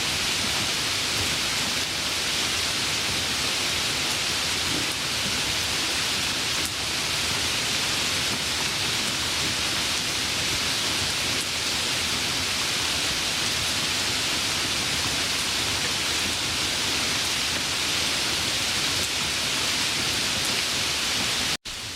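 Steady rain falling, an even hiss without single drops standing out. Near the end it cuts out for an instant and comes back a little quieter.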